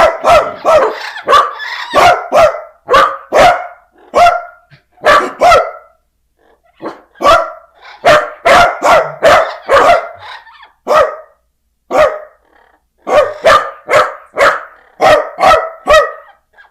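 Rapid series of loud, sharp barks, several a second, with a pause of about a second roughly six seconds in and a shorter one near twelve seconds.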